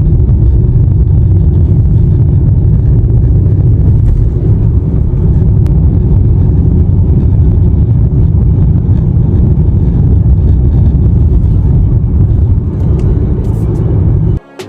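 Cabin noise of a Honda CR-V on the move: a loud, steady low road-and-drivetrain rumble, heard from inside the car. It cuts off suddenly near the end.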